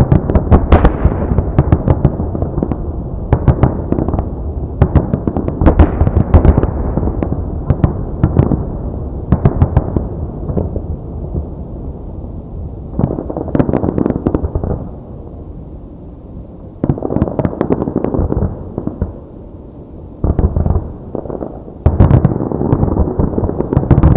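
Fireworks display: aerial shells bursting in a dense barrage of booms and sharp crackling. The barrage thins out about two-thirds of the way through, then builds again near the end.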